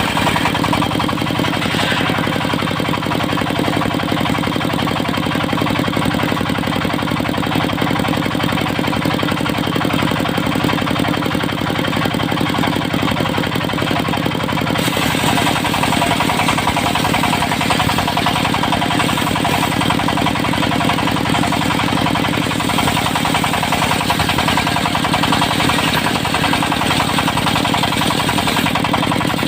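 Engine of a portable circular-saw sawmill running steadily. About halfway through, a higher, harsher noise joins and holds.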